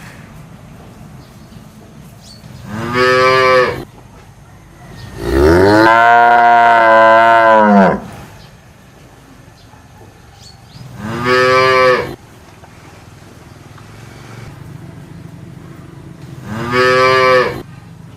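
Cow mooing four times: three short moos of about a second each and one long moo of about three seconds that rises in pitch at its start and falls at its end. A steady low rumble runs underneath.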